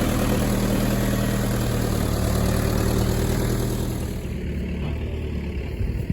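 Case backhoe's diesel engine running steadily, back running after it ran out of fuel and was reprimed. About four seconds in the sound eases and the higher noise drops away.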